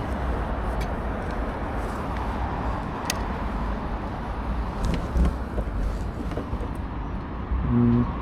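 Steady road and traffic noise, an even rush with no engine note, with a few faint clicks.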